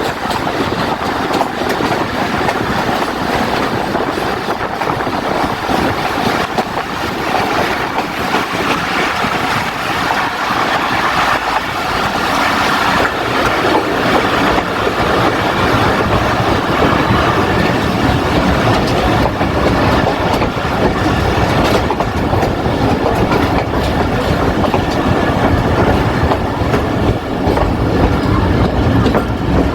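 Jaffar Express passenger train running on the rails: a steady rumble with wheel clatter, growing deeper and louder in the second half.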